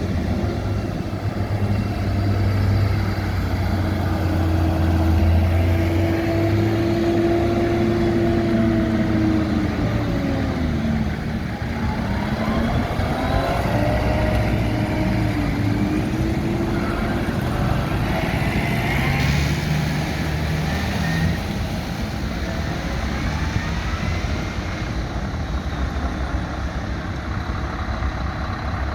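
Engines of tractors and trucks running steadily, with engine pitch falling and rising again several times as vehicles pass and change speed.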